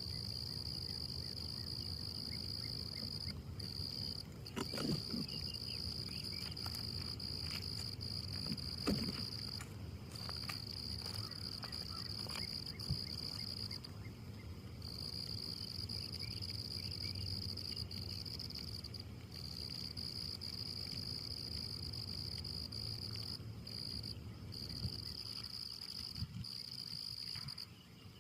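Steady high-pitched chorus of insects trilling on one pitch, breaking off briefly every few seconds, over a low background rumble.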